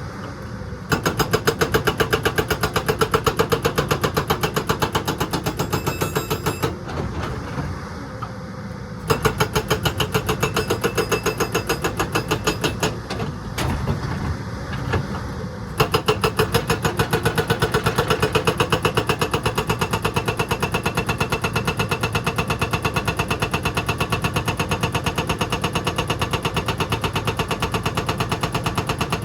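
An excavator's diesel engine running hard with a rapid, even pulsing. It gets louder abruptly about a second in and twice more, with two quieter spells in between.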